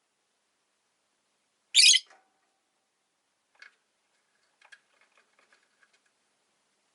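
A rose-faced lovebird gives one short, shrill, harsh call about two seconds in, followed by a few faint clicks.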